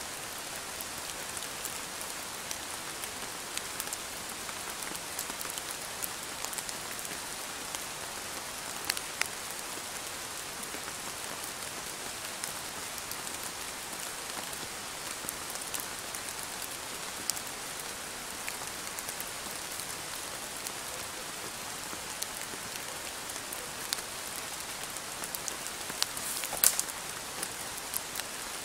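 Steady rain falling through the forest, an even hiss with scattered sharp taps of drops, a few louder taps about nine seconds in and a cluster near the end.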